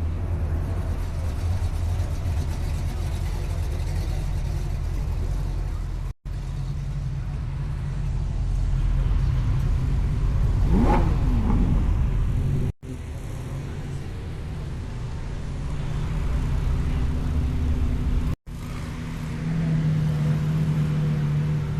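Vehicle engines running with a steady deep rumble, in short stretches broken by three abrupt cuts. About eleven seconds in, an engine revs sharply up and back down.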